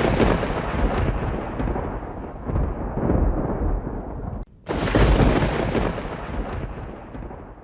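Thunder rumbling and rolling in swells. About four and a half seconds in it breaks off abruptly, then a new thunderclap starts and rolls away, fading.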